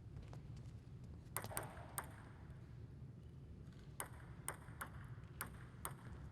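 Table tennis ball clicking off bats and table: three hits early, then a quick run of five sharp pings about half a second apart, as in a short rally, over a low hall hum.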